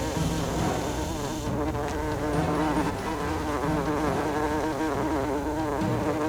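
Cartoon sound effect of a flying insect buzzing steadily, its pitch wavering, with low pulses underneath.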